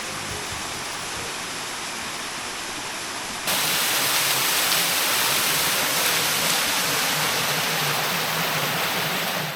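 Waterfall: falling water rushing steadily. The rush turns suddenly louder and brighter about three and a half seconds in.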